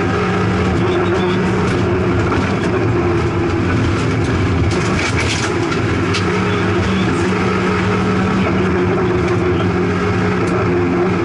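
Opel Astra GSi rally car's four-cylinder engine heard from inside the cabin, running hard at high, fairly steady revs along the stage. The pitch steps down slightly about seven seconds in. A few short sharp knocks come around the middle.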